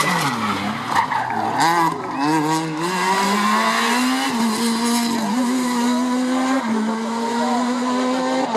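Rally car engine dropping in revs as it brakes into a corner, with tyres squealing briefly about a second in. It then accelerates away, its revs climbing and stepping down at upshifts about five and six and a half seconds in.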